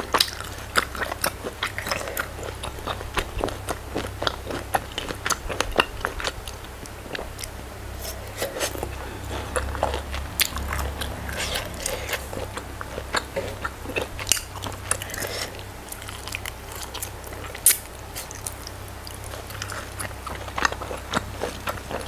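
Close-miked chewing and wet mouth clicks of a person eating goat satay and rice, with many irregular sharp smacks. A low steady hum runs underneath.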